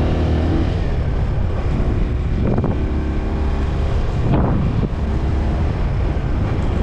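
Honda TMX 125 Alpha's single-cylinder four-stroke engine running steadily on the move, with wind buffeting the microphone.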